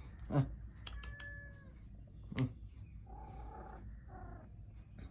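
Kitten meowing several times in thin, drawn-out calls, with a person's short soft calls to it in between.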